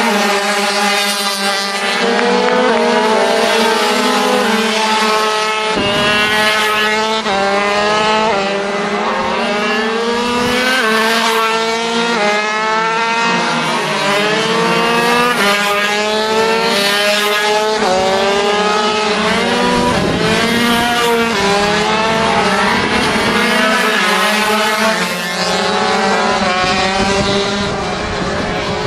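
Several 50cc two-stroke racing minibikes running hard together, their engines rising in pitch over and over as they accelerate and change gear, with more than one bike's pitch heard at once.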